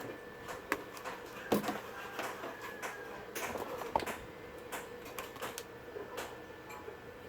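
Irregular light clicks and knocks of hand work with tools and small parts, over a faint steady hum.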